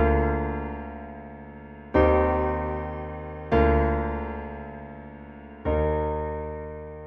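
Slow solo piano music: four chords struck about two seconds apart, each ringing and fading away.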